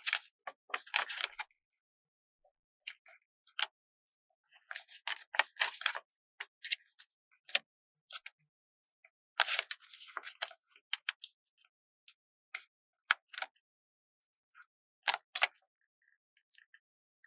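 Stickers being peeled off their backing sheet and pressed down: three stretches of crisp, crackly peeling, with scattered small taps and clicks in between.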